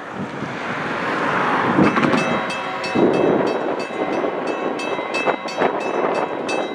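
Two GE Gevo diesel-electric locomotives (ET44AC and ES44AC, each with a GEVO-12 V12 engine) leading a freight train approaching at track speed: the engine and rail noise grows steadily louder. From about two seconds in, a rapid clicking of about four beats a second joins it.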